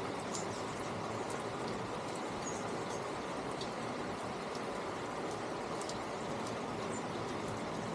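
A steady rushing noise, with faint short high chirps scattered through it.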